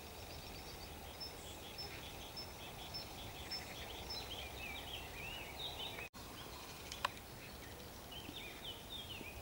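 Countryside ambience with small songbirds singing: a run of short high chirps repeating about twice a second, then quicker warbling phrases, over a steady low rumble of wind. A single sharp click about seven seconds in.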